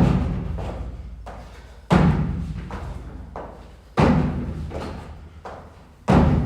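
Heavy thuds of gym equipment hitting the floor, one about every two seconds, each fading out in a long ring.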